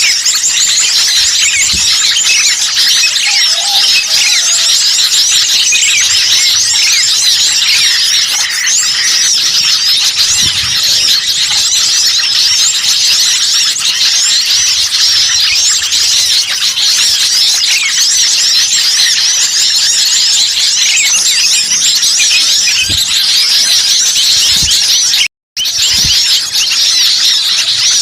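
Dense chorus of many small songbirds chirping and twittering at once: a bird-trapping lure call recording of noisy small birds. The sound cuts out for a split second about 25 seconds in.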